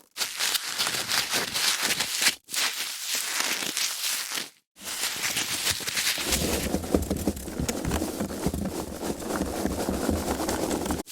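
Foam packaging being handled: dense squeaky, crackly rubbing and scrunching of the foam, in three takes separated by brief silences about two and four and a half seconds in, the last one fuller in the low end.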